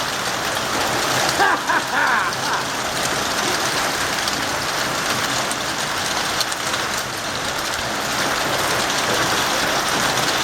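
Heavy rain and hail pouring down in a severe storm: a steady dense hiss with scattered ticks.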